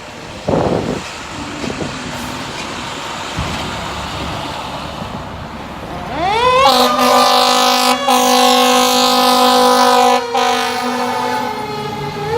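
Fire engine moving off, its engine running under wind and road noise. About six seconds in its siren sweeps up to a steady wail with a lower horn-like tone layered under it, and near the end the wail's pitch slides slowly down.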